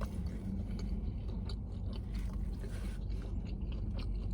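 A person chewing food close to the microphone, with scattered wet mouth clicks and crackles, over a steady low hum.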